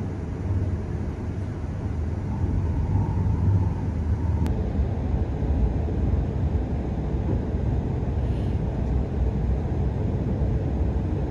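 Steady low rumble of an E6-series Komachi Shinkansen running along the track, heard from inside the passenger cabin.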